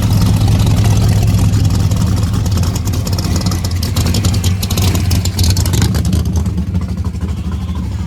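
A car engine running with a steady deep rumble, with some rattling noise over it in the middle of the stretch.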